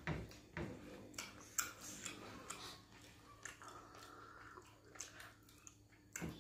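Close-up eating sounds from two people eating pounded yam and pepper soup by hand: wet chewing with irregular short lip smacks and mouth clicks.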